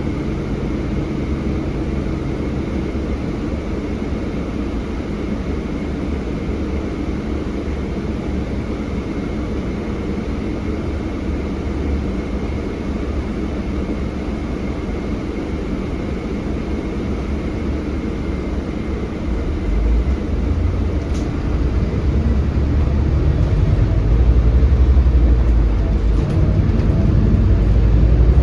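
Scania DC9 five-cylinder diesel engine and road noise heard from inside a moving bus, steady at first and growing louder and heavier in the last third.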